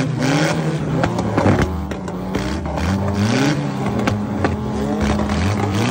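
The engine of a modified old Toyota Corolla, breathing through an upright stack exhaust, is revved again and again, rising and falling in pitch about once a second, with sharp cracks scattered among the revs.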